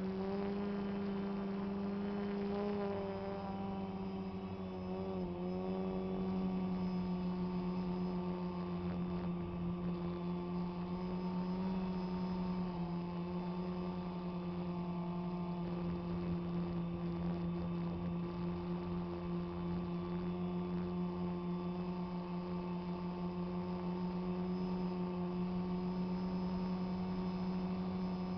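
DJI Phantom quadcopter's motors and propellers humming steadily in flight, one held tone with overtones; the pitch wavers briefly about five seconds in.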